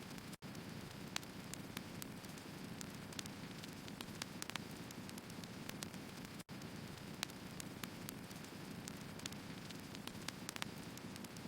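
Firewood burning: a steady low hiss with irregular sharp crackles and pops of the wood. It cuts out briefly about half a second in and again about six and a half seconds in.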